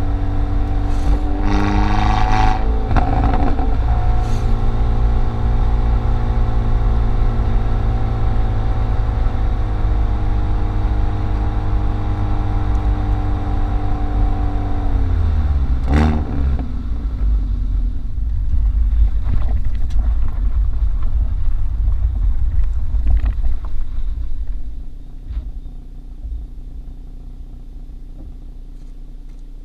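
Hyundai i30 N's turbocharged four-cylinder engine and exhaust running at a steady pitch, then falling in pitch as the revs drop about halfway through, with a sharp exhaust crack as it does. It settles to a lower rumble and goes quieter near the end.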